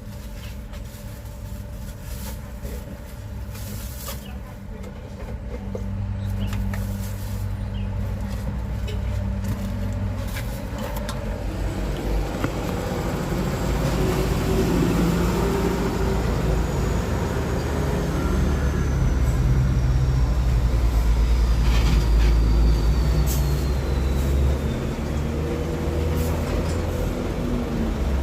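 A motor vehicle's engine running close by and getting louder, with a faint high whine that slides slowly down in pitch in the second half.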